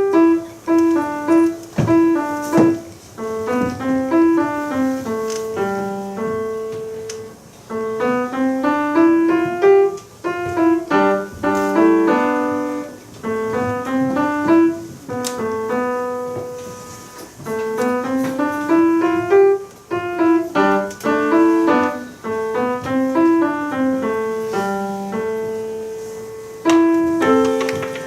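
Solo piano playing an upbeat tune in quick, separate notes, with repeated rising and falling runs over a moving bass line.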